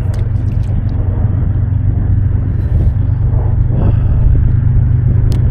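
Strong wind buffeting the microphone: a loud, steady low rumble, with a few light clicks in the first second and one sharp click near the end.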